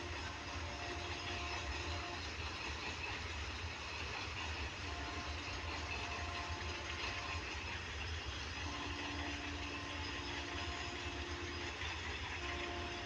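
Freight train of covered wagons rolling past at a distance: a steady low rumble of wheels on track. Faint drawn-out tones of two or three seconds each come back about four times over it.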